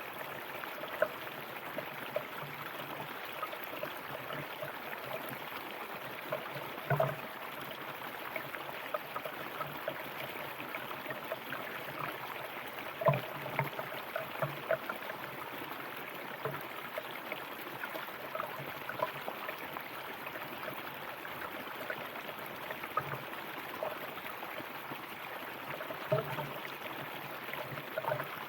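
River water flowing over stones: a steady rush with frequent small gurgles and plops, a few of them louder.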